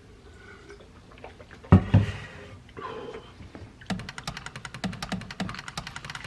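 Two dull thumps close together about two seconds in, then from about four seconds a fast, evenly spaced ticking, like the beat of background music coming in.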